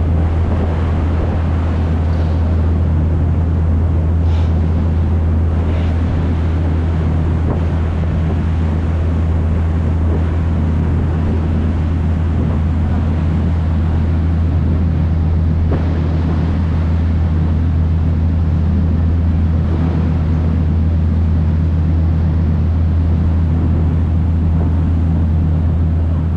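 River tour boat's engine running with a steady low drone, under a constant rushing noise of wind and water.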